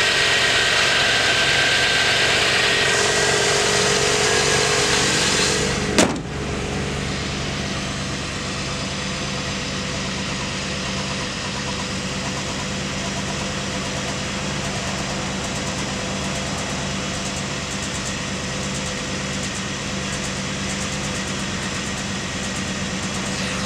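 1987 Chevrolet Camaro's engine idling steadily. For the first six seconds it is heard close up in the open engine bay with a lot of hiss. A sharp click about six seconds in is followed by a lower, smoother idle.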